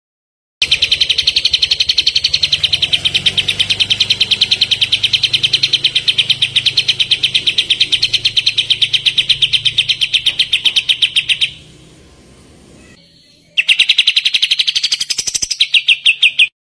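Kapas tembak songbird giving its rapid 'tembakan' call: a fast run of identical sharp chirps, several a second, kept up for about eleven seconds, then after a short break a second burst that speeds up slightly before cutting off suddenly.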